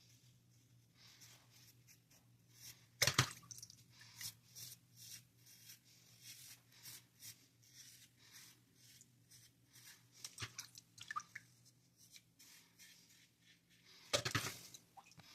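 Razor scraping through lather and stubble on a head being shaved: a run of short scratchy strokes, with two louder rasps about three seconds in and near the end.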